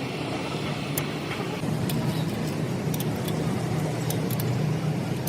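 An engine running steadily, a little louder from about two seconds in, with scattered light clicks over it.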